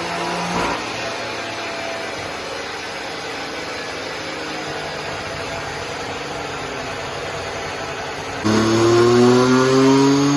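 BMW M2 Competition's twin-turbo S55 inline-six with catless downpipes on a dyno. A hard pull ends abruptly under a second in, and the engine runs quieter and steady for several seconds. Near the end it goes back to full throttle with its pitch climbing steadily.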